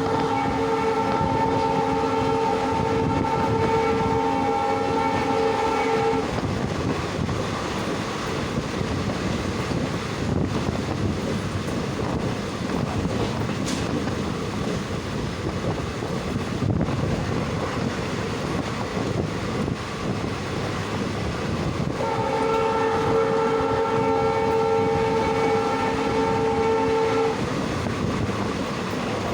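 Diesel locomotive of an express train sounding its multi-tone horn in long steady blasts: one of about six seconds at the start, another of about five seconds later on, and a third starting near the end. Between the blasts the train's running noise rumbles on.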